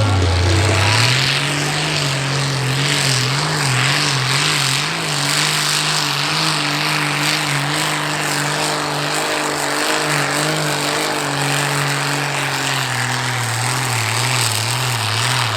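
Continental AVI-1790 V12 tank engine of a tractor-pulling machine running hard under full load during a pull; its pitch climbs in the first second, then holds as a loud, slightly wavering drone with heavy exhaust noise.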